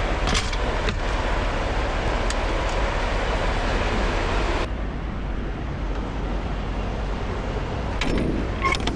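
Semi truck running, a steady low rumble with road or engine noise; about halfway through the hissy upper part of the noise drops away abruptly, and a few sharp clicks come near the end.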